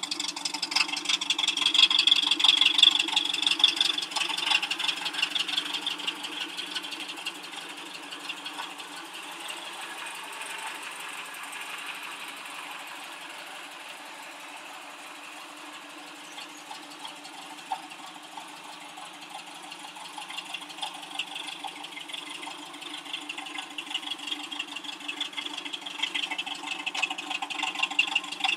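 Ford Pinto 2.0-litre four-cylinder engine of an Eagle RV kit car idling steadily, louder near the start and again near the end, quieter in the middle.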